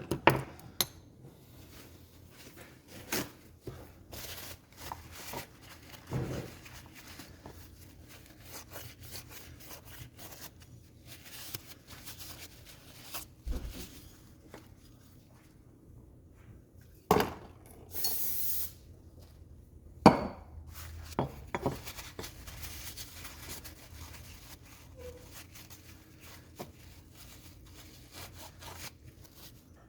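Small metal parts of a snowmobile power valve being handled on a workbench: scattered clinks, clicks and rubbing, with a few sharper knocks near the start and about 17 and 20 seconds in, and a short hiss between them.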